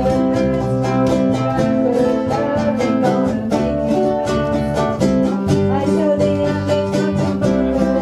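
Ukuleles strummed in a steady rhythm over low bass notes, played live by a ukulele band.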